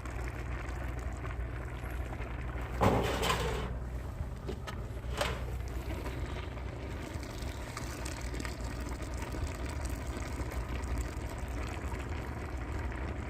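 Wood fire burning under a cauldron of boiling soybeans: a steady bubbling, rushing noise over a low hum, with a louder burst about three seconds in and a single sharp crack about two seconds later.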